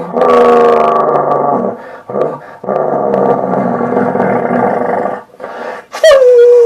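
A man imitating a Scania truck with his voice. First a pitched engine note with a slight downward drift, then a rough, buzzy, growling rumble for a couple of seconds, then near the end a sharp high whine that swoops down and holds a steady note.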